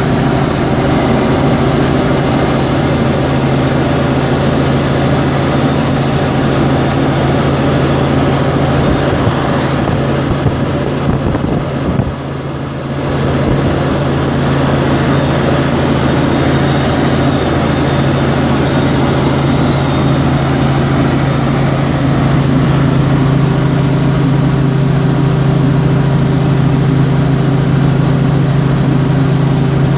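Vehicle driving down a highway grade: steady engine and road noise with a strong low hum, dipping briefly about twelve seconds in.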